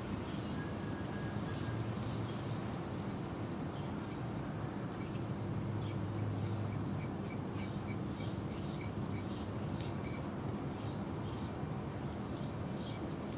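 Kittens eating, with short, high chewing and smacking sounds coming in little clusters of two or three, over a steady low hum.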